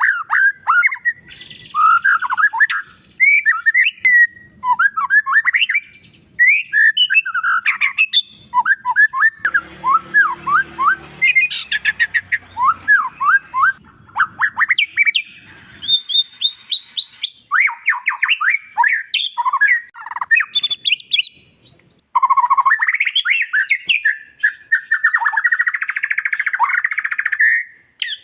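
White-rumped shama (murai batu) song: a long run of varied whistled phrases, with sweeping notes, rapid trills and harsher chattering bursts. About a third of the way in a low background rumble comes in for several seconds, and near the end the recording changes abruptly to a denser burst of song.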